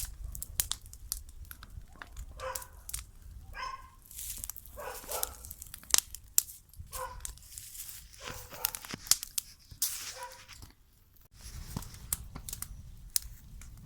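A dog barking about six times, spread out, over a constant run of sharp snaps and crackles from a bonfire.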